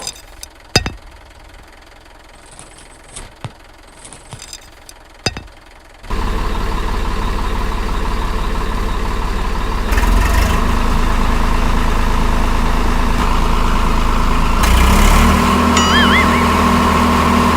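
A few sharp knocks, then about six seconds in a motor starts running with a steady hum and whine, growing louder twice.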